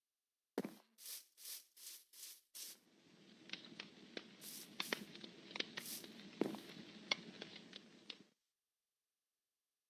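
Campfire crackling, a low hiss with frequent sharp pops and snaps, preceded by a quick run of six short hissing rushes; it starts abruptly and cuts off suddenly a little over a second before the end.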